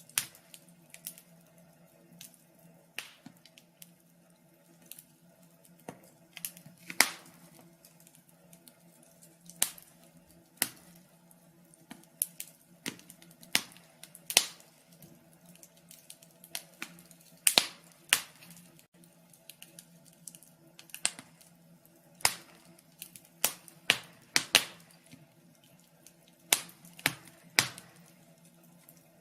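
Wood fire burning in a fireplace, crackling with irregular sharp pops and snaps, a few much louder than the rest, over a faint steady low hum.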